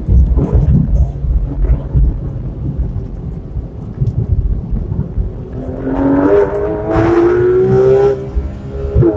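Porsche 991 RS flat-six heard from inside the cabin. It runs at low revs over road and tyre rumble, then pulls hard from about five seconds in, its note climbing steadily. Near the end the note drops at an upshift and begins climbing again.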